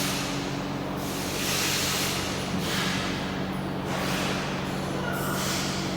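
A steady low mechanical hum with several tones, overlaid by hissing rushes of noise that swell and fade every second or so.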